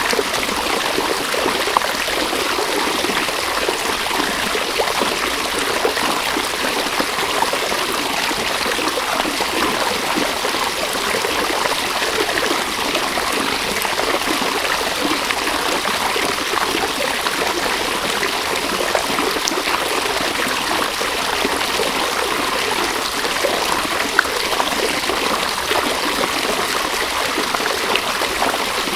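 River water flowing and splashing over stones, a steady, even rush with a couple of brief ticks.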